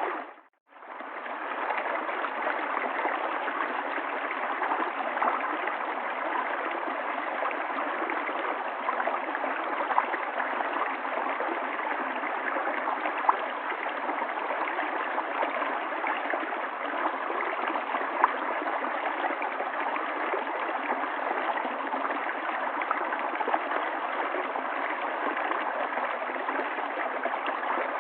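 River water flowing and gurgling steadily, with the odd brief louder splash. The sound cuts out for a moment about half a second in and fades back up.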